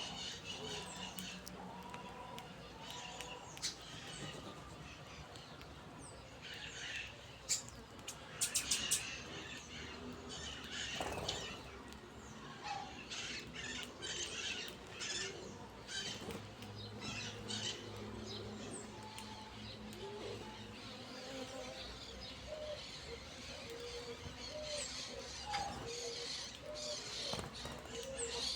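Small birds chirping and twittering while they feed, in many short, high calls, with a quick run of sharp clicks about eight seconds in.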